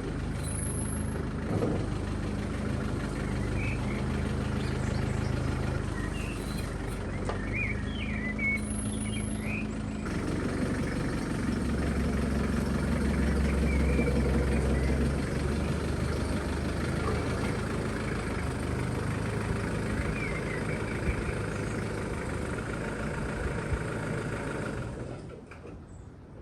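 A motor vehicle engine running, its pitch stepping up and down, with an abrupt change about ten seconds in and short high chirps over it now and then.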